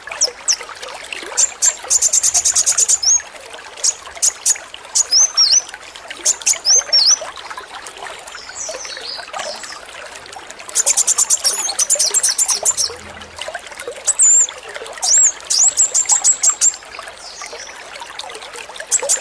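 Male kolibri wulung (sunbird) singing: bursts of very rapid, high, machine-gun-like trills, the 'AK-47' song, alternating with short sweeping whistled notes. A steady trickle of running water underneath.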